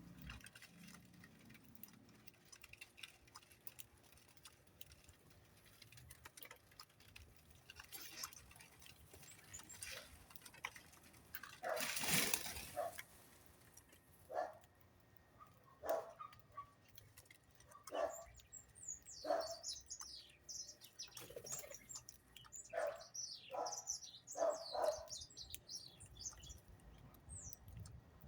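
Birds calling and chirping: short calls repeating every second or two through the second half, with high, quick chirps layered over them. About twelve seconds in there is a loud rustle lasting about a second, with faint ticks and taps before it.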